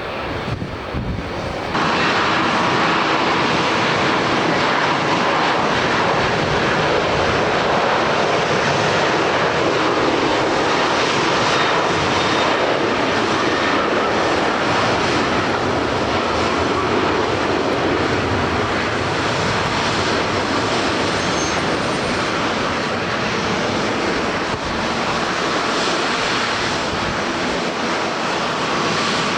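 Boeing 737-800's CFM56-7B jet engines running at takeoff thrust, a loud steady roar that jumps up sharply about two seconds in and holds.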